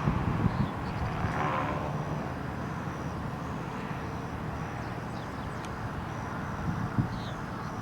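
Steady rumble of a running vehicle, its engine and road noise.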